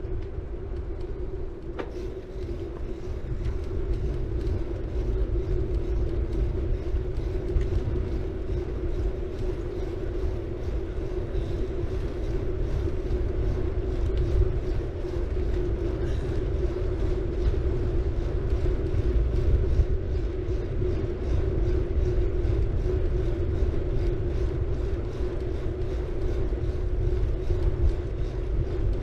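A city bike riding along: tyres rolling on the road surface, with a steady low rumble from wind on the camera's microphone. Underneath run a steady hum and a quick run of even ticks.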